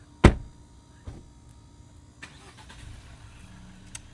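A loud sharp thump, a car door shutting, then a softer knock about a second later. Then the low steady rumble of a car running.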